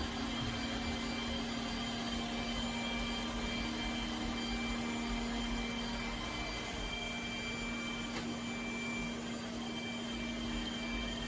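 iRobot Roomba Combo j7+ robot vacuum running: a steady motor whir with a constant low hum.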